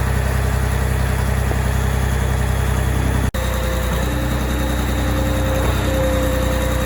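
Engine of a 2004 Reed C50HPS concrete pump running steadily. It cuts out for an instant about three seconds in, and a steady higher whine joins about a second later.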